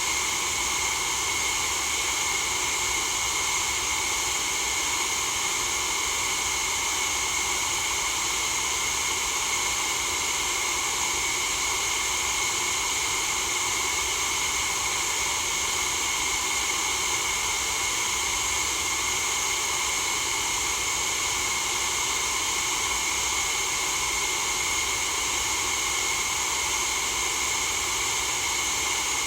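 Steady white noise for sleep: an unchanging hiss, brightest in the high treble, with a few bands standing out rather than an even spread.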